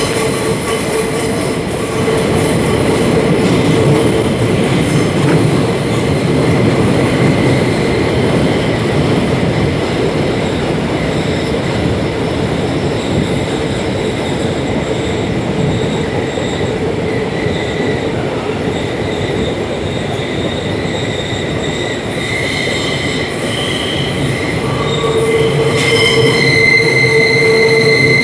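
Heard from inside a class 472 S-Bahn electric multiple unit on the move: a steady rolling rumble with wheel squeal, high squealing tones that grow louder near the end.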